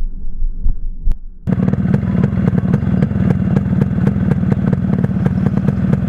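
Yamaha RX100 two-stroke single-cylinder engine running with a loud, evenly paced rapid exhaust beat. It comes in abruptly about a second and a half in, after a stretch of dull, muffled low thumping.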